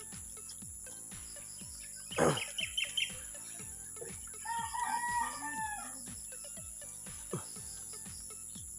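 A rooster crows in one long, pitched call with a rise and fall about halfway through. A few short bird chirps come a couple of seconds earlier.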